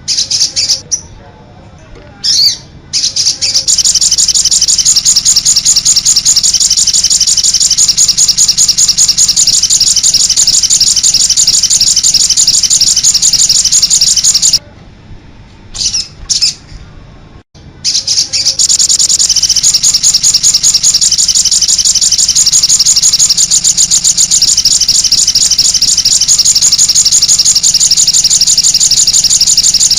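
Recorded songbird song for training captive birds: a rapid, high-pitched chattering trill that runs on continuously, broken by two short pauses, one near the start and one about halfway through.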